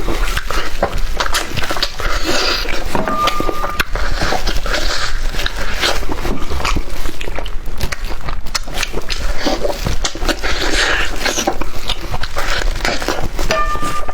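Close-miked eating: wet chewing, lip-smacking and gnawing on spicy meat on the bone, full of dense, irregular clicks and crackles.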